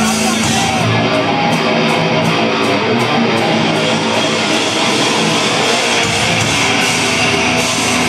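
Heavy metal band playing live, with electric guitars to the fore, loud and dense throughout.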